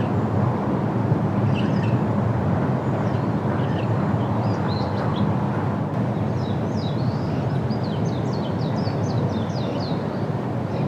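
Small birds chirping over a steady low rumble. A quick run of short, falling high notes comes about six seconds in and lasts some four seconds.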